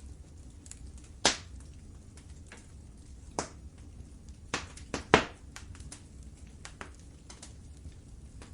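Wood fire crackling in a fireplace: scattered small ticks with a few sharp pops, the loudest about a second in and a close pair just after five seconds, over a low steady rumble.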